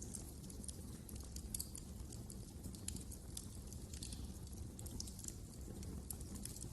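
Wood fire crackling: many small irregular snaps and pops over a steady low rumble of the burning fire.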